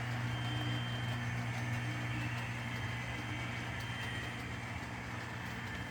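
HO-scale model train running on the layout: a steady low motor hum with rail noise, fading slightly.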